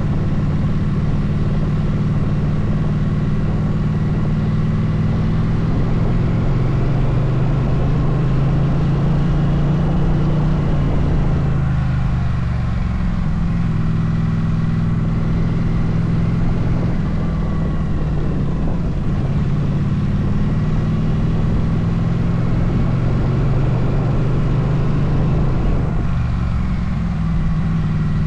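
Motorcycle engine running steadily at riding speed over low wind rumble. Its note eases down briefly about twelve seconds in and again near the end, as the throttle is eased or a gear changes.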